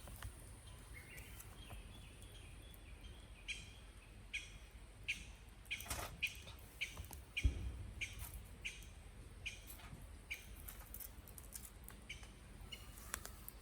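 A wild bird singing a long run of short, evenly spaced high notes, about two a second, with a few sharp clicks and one dull thump about halfway through.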